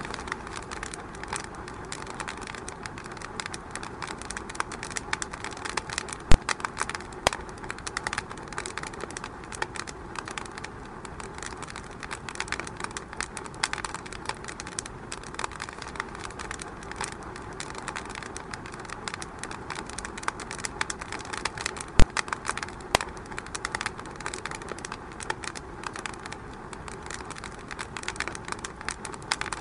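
Wood fire in a fireplace crackling steadily, with many small snaps and pops. Two sharper, louder pops stand out, one about six seconds in and one about two-thirds of the way through.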